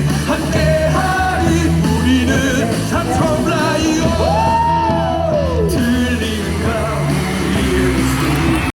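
Stadium cheering song over the ballpark loudspeakers with a steady beat, while a crowd sings and shouts along. About midway a gliding tone rises and falls.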